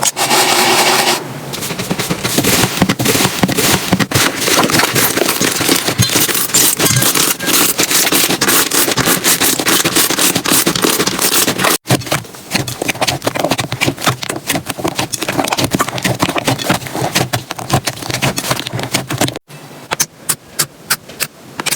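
Slime being squeezed and pressed by hand, a dense run of crackling and popping clicks. It breaks off twice, about twelve and nineteen seconds in, and the last part is a sparser string of separate pops.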